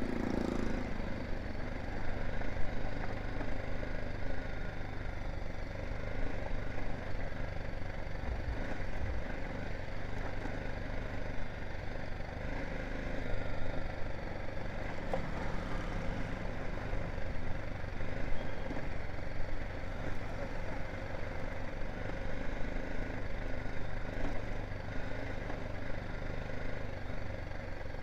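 BMW G 310 GS single-cylinder motorcycle engine idling steadily.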